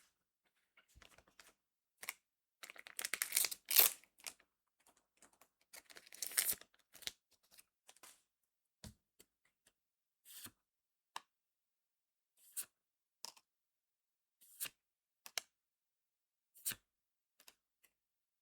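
A foil trading-card booster pack being torn open, with crinkling tears about three seconds in and again about six seconds in. After that come single sharp snaps of the cards being handled, roughly one a second.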